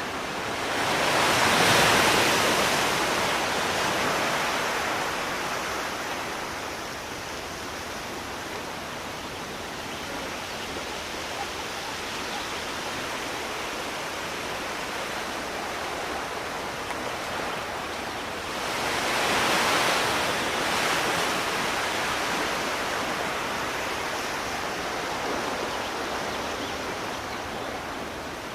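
Sea waves washing onto a shore: a steady rush of surf, with two bigger waves swelling and breaking, one about two seconds in and another about two-thirds of the way through.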